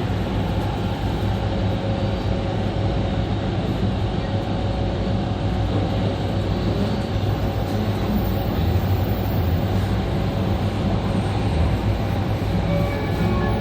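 Running noise of an E2 series Shinkansen with Mitsubishi IGBT traction inverters, heard from the car's vestibule: a continuous low rumble with a few faint steady tones, and some short higher tones coming in near the end.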